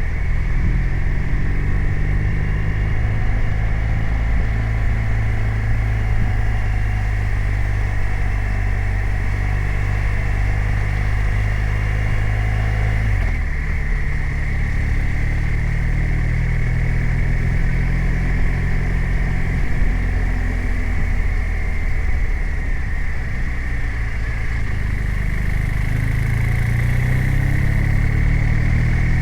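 BMW R 1250 RT's boxer twin engine running under way, heard from the rider's position. The engine note changes abruptly about halfway through and rises again near the end.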